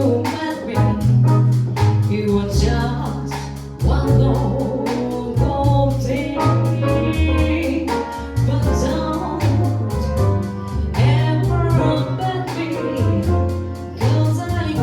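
A woman sings a jazz standard with a small band, voice held and bending over a bass line that steps from note to note. Steady, evenly spaced cymbal strokes keep time.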